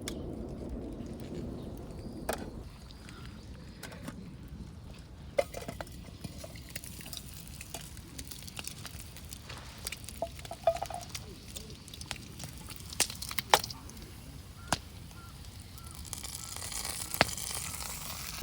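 Scattered sharp clicks and light clinks, about seven of them at irregular intervals, over a low steady background.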